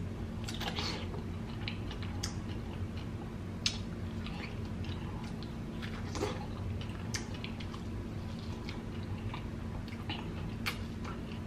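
Close-up mouth sounds of biting into and chewing soft, juicy kiwi fruit: scattered wet smacks and clicks. A steady low hum runs underneath.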